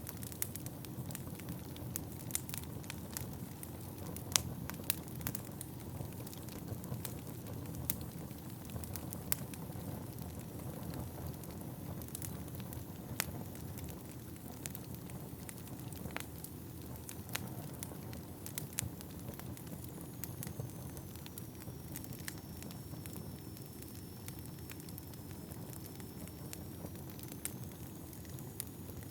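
Wood fire burning in a fireplace: a steady low rush of flames, with irregular sharp crackles and pops from the burning logs.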